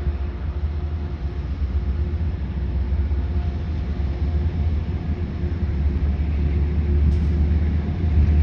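Train running past at the tracks: a steady low rumble with a faint hum, slowly growing louder.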